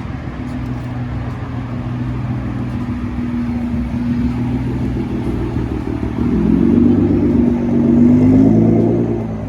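A car engine running close by with a steady note, revved up about six seconds in so the pitch and loudness rise, then easing off near the end.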